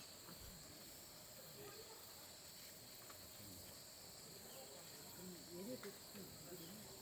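Faint, steady chorus of insects, several high-pitched trills held evenly throughout. Faint voices come in low underneath, about five seconds in.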